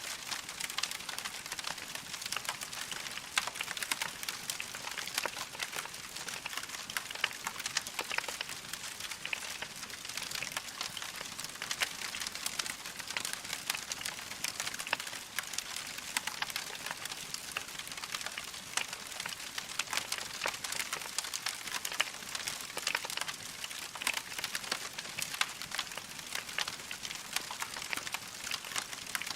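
Wood logs burning in a fireplace, crackling steadily with many small sharp pops over a soft hiss.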